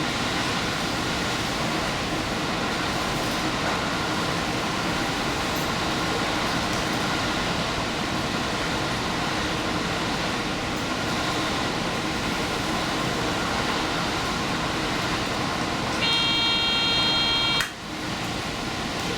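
Train running steadily along the line, a constant rumble and hiss of wheels on rail. About 16 seconds in a horn sounds, one steady chord of a second and a half, which cuts off sharply.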